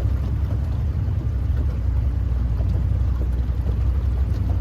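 Boat motor idling, a steady low rumble.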